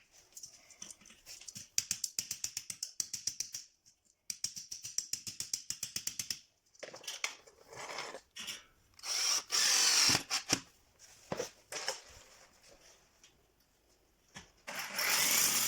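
Cordless drill-driver driving self-tapping screws into metal drywall profiles: two runs of rapid, even clicking early on, then louder bursts of screw driving, the loudest about nine seconds in and another near the end.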